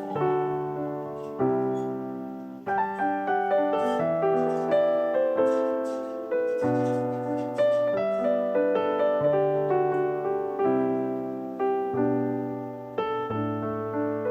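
Background piano music: a gentle melody of single notes and chords, each struck and then fading.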